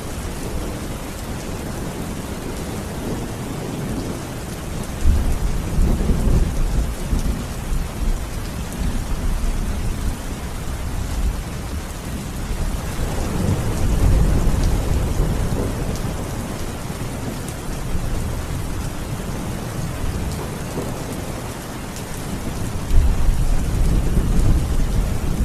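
Steady rain with thunder rumbling low three times, about five, thirteen and twenty-three seconds in.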